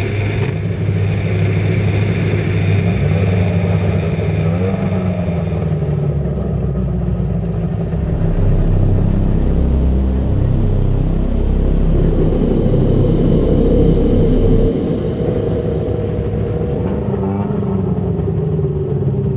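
Stock-car engine running with a low rumble, revving up and down several times.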